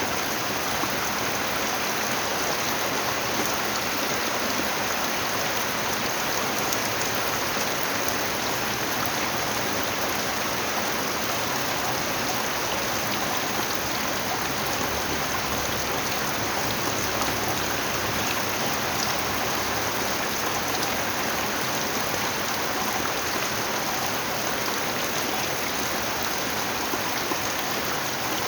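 Steady rain falling, a dense, even hiss that does not change.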